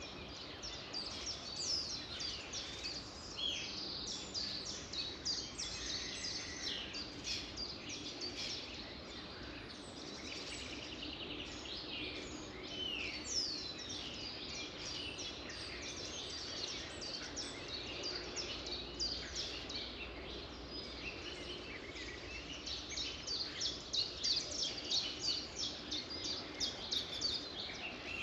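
Chorus of several songbirds singing and chirping over one another, with quick sweeping notes and a run of rapid repeated chirps near the end, over steady background noise.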